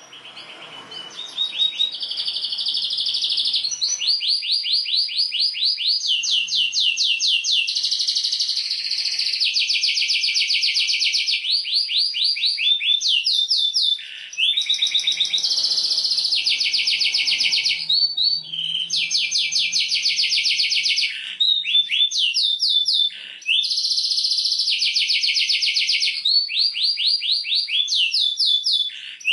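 Domestic canary singing a long song of rapid trills, each trill held a second or two before switching straight to the next, with a few brief breaks.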